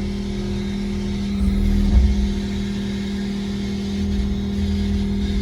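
Skid steer engine running steadily as the machine creeps up to an attachment, with a brief louder low surge about two seconds in.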